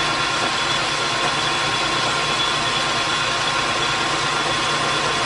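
Metalworking machine tool running steadily under power, a continuous hum with a steady high whine over it.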